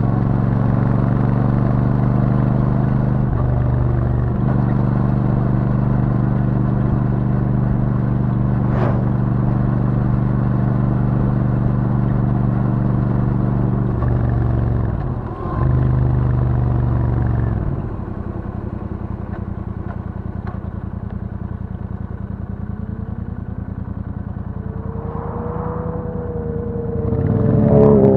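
Royal Enfield Super Meteor 650's 648 cc parallel-twin engine through its stock exhaust, running at steady cruising revs. A brief dip about halfway, then several seconds quieter and lower, before the pitch rises and it gets louder again near the end as the bike picks up speed.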